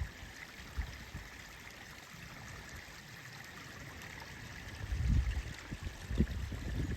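A small creek running strongly after rain, a steady rush and babble of water. A few low rumbles come in the second half.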